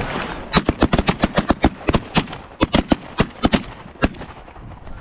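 A volley of shotgun fire from a group of goose hunters shooting together: about twenty blasts in quick, overlapping succession, starting about half a second in and tapering off about four seconds in.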